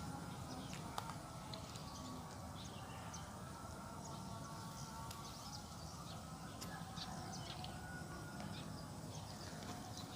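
Small birds chirping in short, scattered calls over a steady low background noise outdoors.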